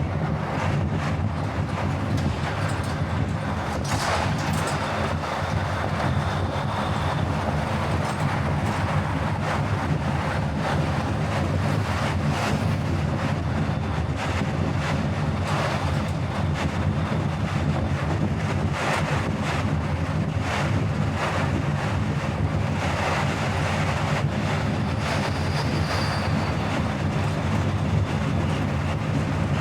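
Car driving at a steady speed: continuous road and engine rumble with wind buffeting the microphone.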